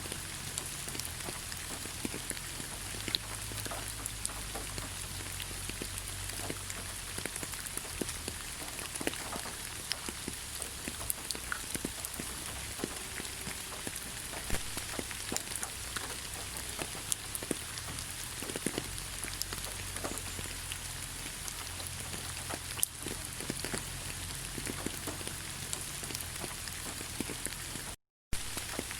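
Steady rain falling in a forest, a constant hiss with many separate drops clicking out of it. The sound cuts out for a moment near the end.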